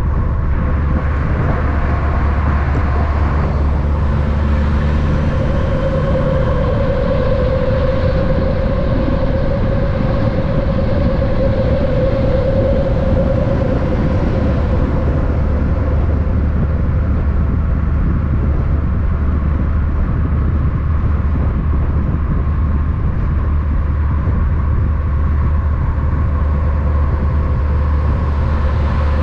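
Steady heavy-vehicle noise: a constant low engine hum with road sound and a held mid-pitched tone, unchanging in loudness.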